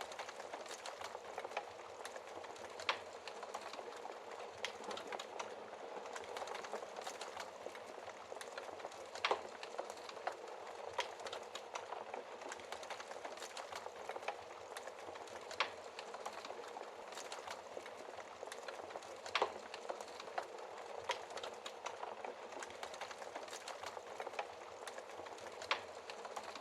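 Wood fire burning in a fireplace: a steady hiss of flames with a constant run of small crackles and a few louder pops from the burning wood.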